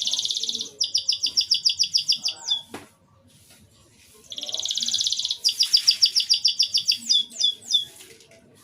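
Domestic canary singing two short, clear song phrases, each opening with a fast buzzing roll and running into quick repeated notes, about eight a second, with a few quick sliding notes at the end of the second. A short sharp click comes between the phrases.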